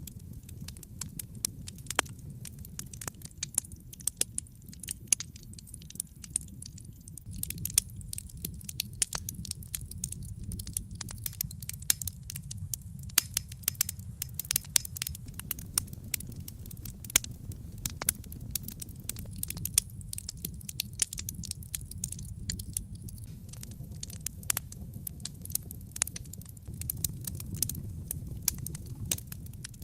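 Wood fire in a fireplace crackling: dense, irregular sharp pops and snaps over a low, steady rush of burning.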